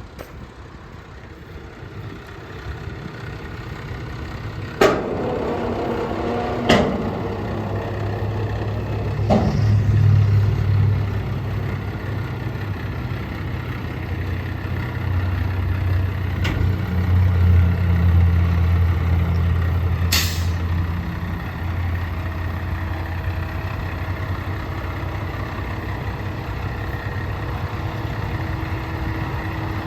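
Kenworth T880 dump truck's diesel engine running, working harder for about fifteen seconds before settling back to a steady idle. A few sharp clunks come early on, and there is a short burst of air hiss about twenty seconds in.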